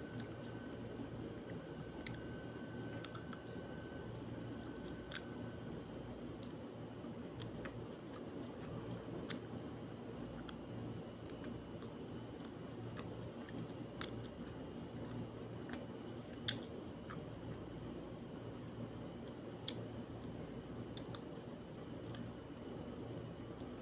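Close-miked chewing of kabsa rice and grilled chicken eaten by hand, soft wet mouth sounds over a steady low hum. A few sharp clicks are scattered through it, the loudest about two-thirds of the way in.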